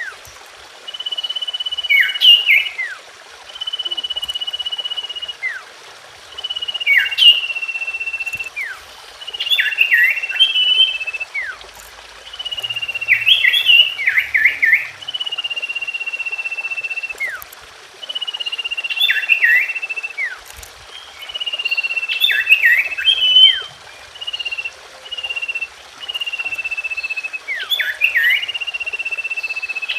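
Common iora song: a long, steady, high whistle of about a second, each followed by a quick cluster of falling notes. The phrase repeats about every three seconds, over a faint steady hiss.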